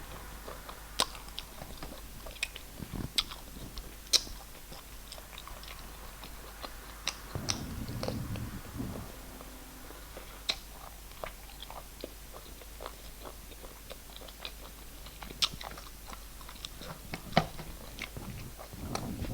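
Close-up mouth sounds of a person eating rice and snail stew: chewing with many short, sharp wet clicks and smacks. About halfway through there is a brief low sound.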